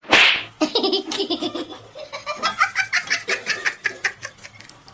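A loud, short noisy burst at the very start, then a person laughing hard in quick repeated pulses for several seconds.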